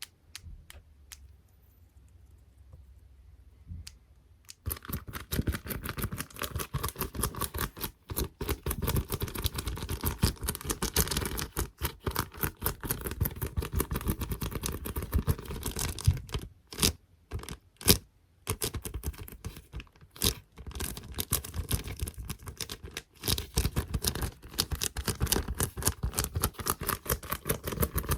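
Fingertips tapping on small squishy toys, paper clips and stickers for ASMR. A few soft, scattered taps at first, then dense, rapid tapping starts about four and a half seconds in, with a couple of brief pauses in the middle.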